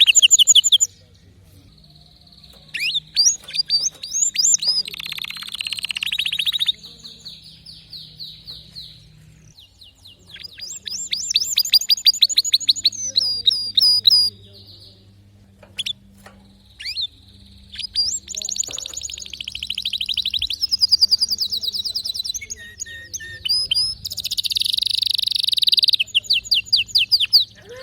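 Domestic canary singing: several phrases of rapid trills and runs of fast repeated notes, with short pauses between them.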